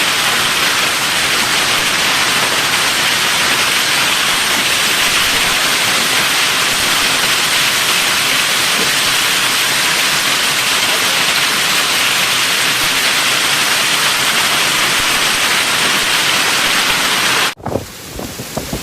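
Heavy thunderstorm rain pouring down, a dense steady hiss. It cuts off suddenly near the end, leaving a quieter hiss.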